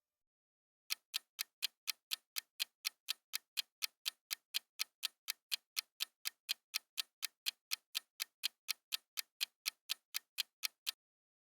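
Ticking-clock countdown sound effect, even sharp ticks at about four a second, starting about a second in and stopping near the end: the quiz's answer timer.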